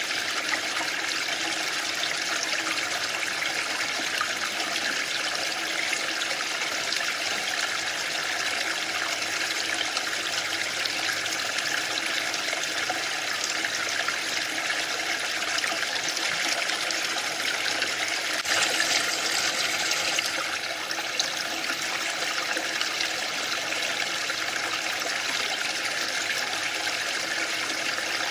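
Waterfall: a steady, continuous rush of falling water, with a brief louder surge about two-thirds of the way through.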